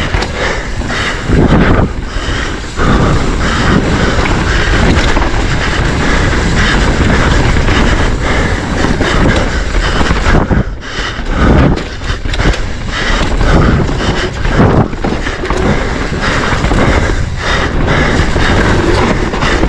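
Mountain bike descending a dirt trail at speed: wind rushing over the helmet camera's microphone, mixed with tyre and trail noise. The noise swells and dips with the terrain.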